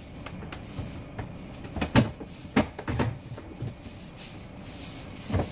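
A few sharp knocks and clunks of food containers and fridge parts being handled while a refrigerator is cleared out, the loudest about two seconds in and the last near the end.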